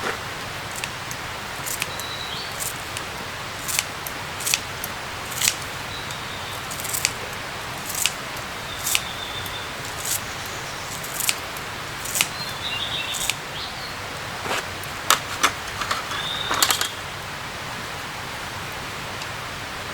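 Outdoor forest ambience: a steady hiss with irregular sharp taps, about one a second and bunching together near the end, and several brief high bird chirps.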